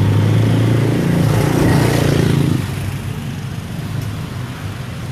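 A motor vehicle passing close by with its engine running loud and steady. The sound swells about two seconds in, then drops away suddenly as it goes past, leaving steady street traffic behind.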